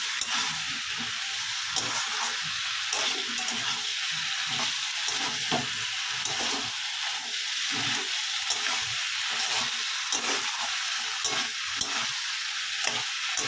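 Okra and potato pieces frying in spiced masala in a metal kadai, sizzling steadily while a spatula stirs them and scrapes and taps against the pan many times.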